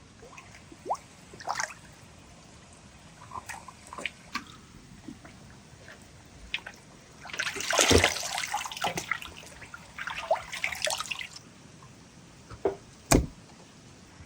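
Water splashing and dripping in short, irregular bursts, with two longer splashes about seven and ten seconds in, and a sharp knock near the end.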